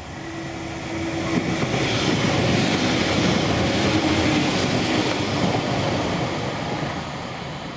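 Northern Class 195 diesel multiple unit passing through the station at speed, engine and wheels on the rails growing louder to a peak in the middle and fading as it draws away.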